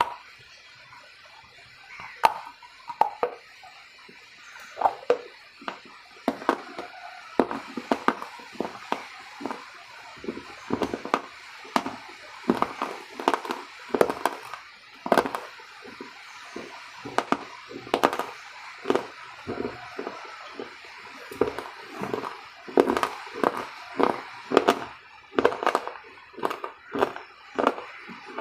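Close-miked chewing: a person eating a bite of snack with her mouth closed, with irregular wet smacks and clicks, one to three a second, growing busier after about seven seconds.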